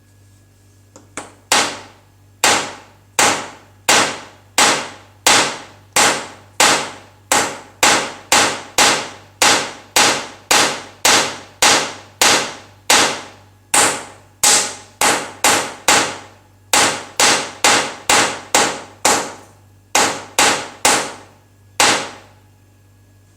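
A long run of sharp, loud strikes, about three dozen at one to two per second, each ringing briefly before the next. They begin about a second and a half in and stop about a second before the end.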